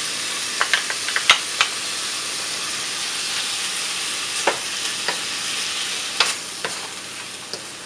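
Onion, chili and ginger-garlic paste sizzling in hot oil in a frying pan, with a spatula knocking and scraping against the pan several times as the mix is stirred. The sizzle eases a little near the end.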